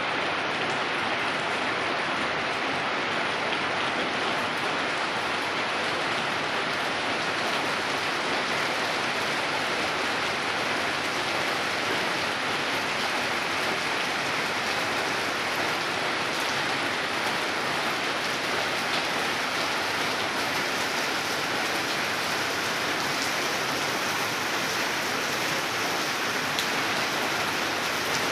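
Steady rain falling on surfaces, an even hiss of drops with no break.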